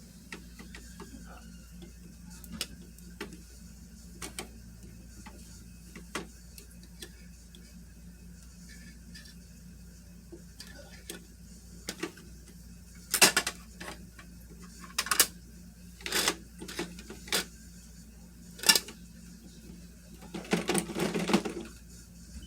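Scattered clicks and taps of small plastic toy pieces being handled, a toy garbage truck and its bins, with louder knocks in the second half.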